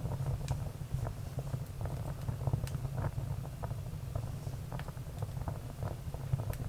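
Firewood burning: irregular crackles and small pops over a steady low rumble of the fire.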